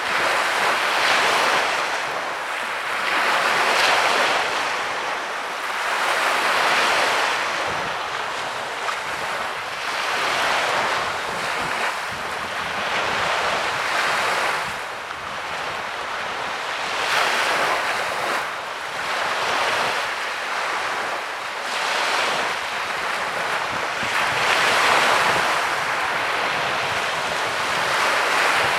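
Sea waves breaking and washing onto a beach, the surf swelling and fading every few seconds.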